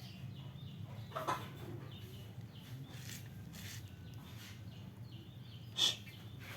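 Short, sharp bird calls, with two louder ones about a second in and near the end, and faint chirping between them over a steady low hum.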